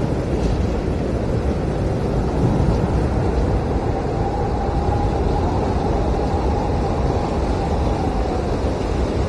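Howling blizzard wind: a steady, heavy rush with a faint wavering whistle in the middle.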